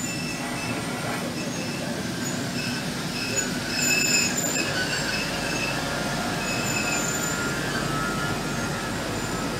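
ETR 460 Pendolino electric train running past along the platform: wheels rumbling on the rails, with short high-pitched squeals coming and going from the running gear, loudest about four seconds in.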